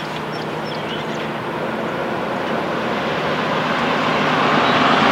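A road vehicle approaching, its tyre and road noise a steady rush that grows gradually louder. A couple of faint bird chirps come through near the start.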